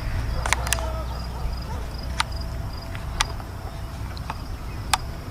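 Insects chirping in a faint, evenly pulsing high rhythm over a steady low rumble, with five sharp clicks scattered through it.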